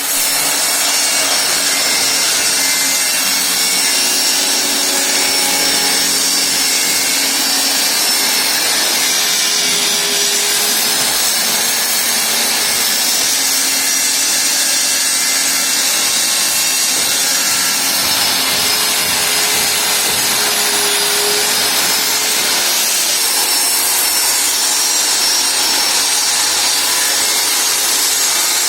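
Circular saw cutting through plywood, running steadily under load without a break.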